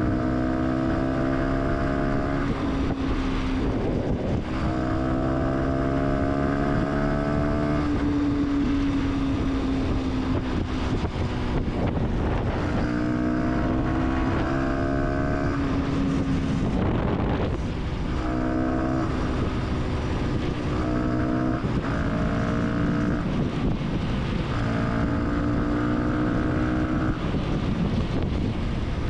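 Fantic 125 supermoto's single-cylinder engine pulling through the gears: the engine note climbs again and again and drops sharply between pulls, with wind noise on the microphone.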